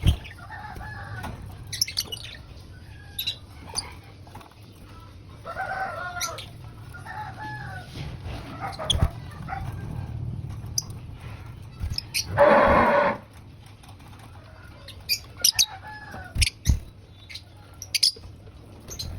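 Birds calling: short arched calls that come again and again, and one louder call lasting most of a second about twelve seconds in. Sharp clicks are scattered through it.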